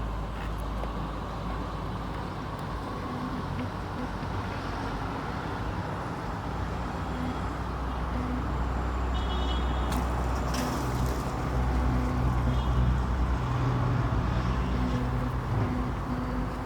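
A motor vehicle running steadily amid road and traffic noise, with a low rumble that grows a little louder through the middle.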